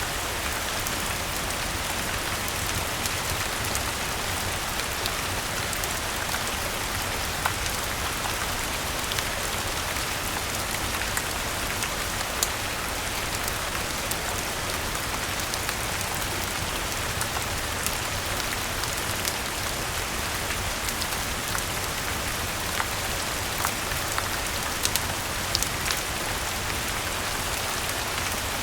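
Steady rainfall, an even hiss of rain on surfaces, with scattered sharp ticks and pops throughout.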